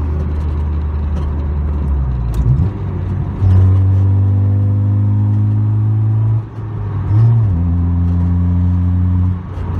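2001 Honda Civic's naturally aspirated single-cam four-cylinder engine heard from inside the cabin, running at steady revs. The sound dips briefly about two and a half seconds in and again about six and a half seconds in, and the engine settles at a new pitch each time, as when a 5-speed manual is shifted.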